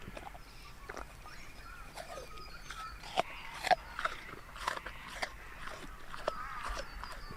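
Irregular sharp crunches and clicks, like something being chewed, with birds chirping faintly behind.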